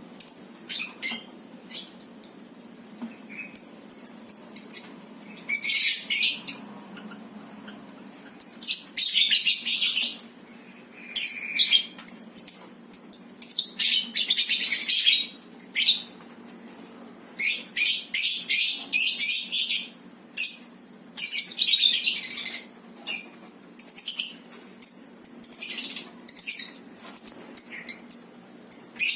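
Lovebirds chattering: repeated harsh, high-pitched chirping calls in short bursts with brief pauses between them.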